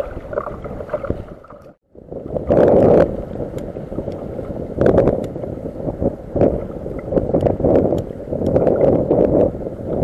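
Sea water sloshing and splashing against a fishing kayak's hull in uneven surges every second or two, with a brief break about two seconds in.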